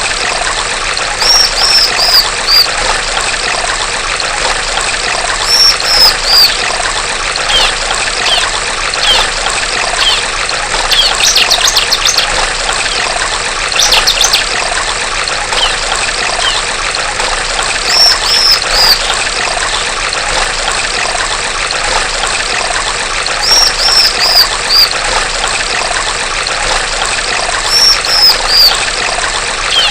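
Stream water trickling steadily, with a female bar-winged prinia (ciblek) calling over it in short phrases of three or four falling chirps every few seconds, and two quick trills near the middle.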